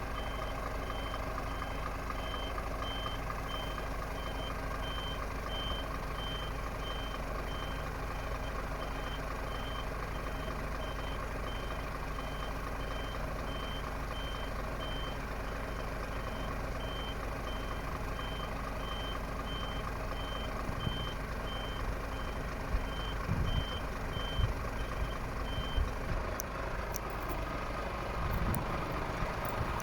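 Scania P410 truck running steadily with its reversing alarm beeping about once a second; the beeping stops near the end, where a few knocks and clicks are heard.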